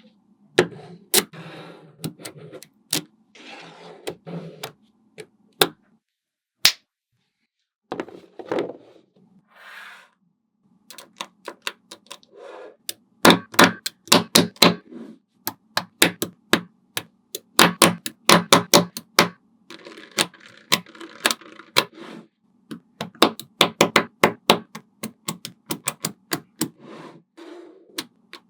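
Small magnetic balls clicking as they snap together, in quick irregular runs of sharp clicks, with stretches of softer rattling between them.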